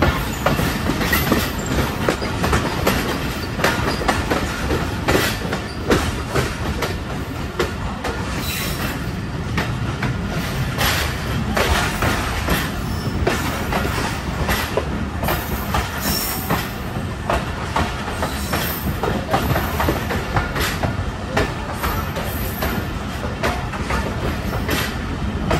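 Passenger train coaches running on the track as the train pulls into a station: a steady rumble of wheels on rail, with irregular clacks as the wheels cross rail joints and points.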